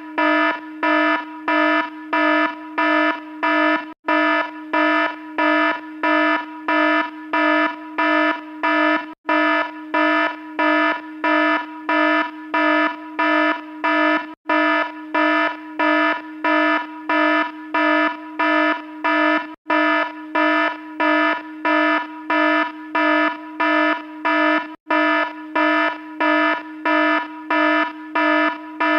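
An alarm sounding a loud, buzzy pulsed tone, a little under two beeps a second, with a brief gap about every five seconds.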